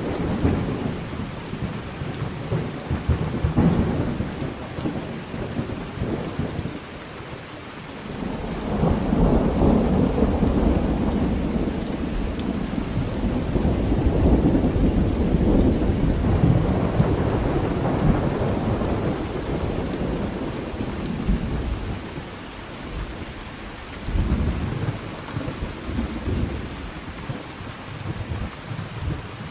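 Thunderstorm: steady rain with long, rolling thunder that swells and fades, the longest roll building about 8 seconds in and dying away over some thirteen seconds, with shorter rumbles at the start and near the end.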